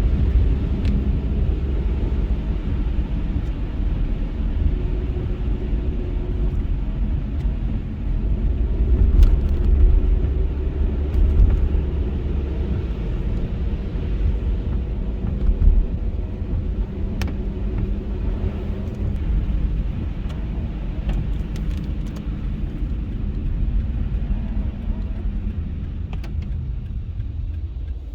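Car driving on a snowy road: a steady low rumble of engine and tyres, easing off near the end.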